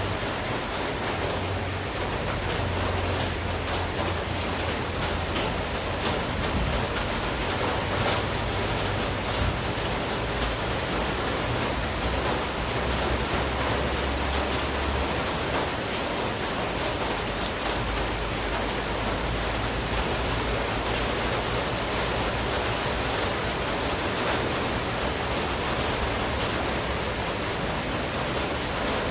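Steady monsoon rain falling, an even hiss with a few sharper drop ticks now and then, over a faint low rumble.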